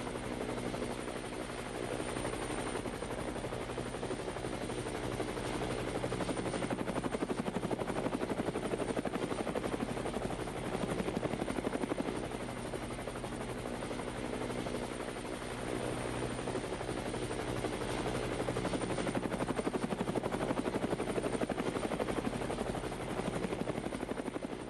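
Parrot Bebop 2 quadcopter's propellers buzzing steadily in flight, a whirring hum of several fixed pitches that swells a little in level now and then.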